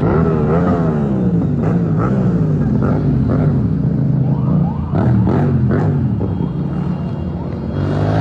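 Motorbike engines revving, their pitch rising and falling over and over.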